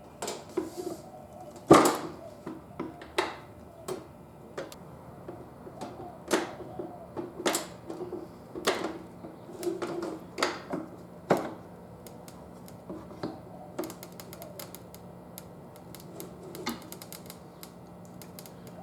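Sharp metal clicks and knocks of a homemade tyre-changing tool working against a motorcycle wheel rim as it is forced around, one every second or so. The loudest knock comes about two seconds in, and a quick run of light ticks comes near three-quarters of the way through. The tyre bead is following the tool around and the tool is really hard to turn.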